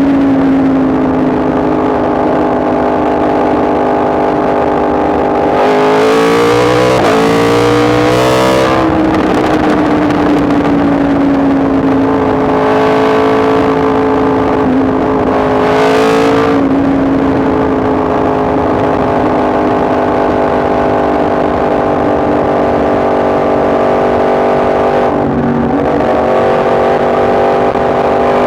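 Yamaha MT-10 SP's crossplane inline-four engine running under way at a fairly steady speed. About six to nine seconds in there is a burst of rapid pitch changes, from about thirteen to sixteen seconds a rising rush of noise builds and then drops away, and near the end the note dips briefly.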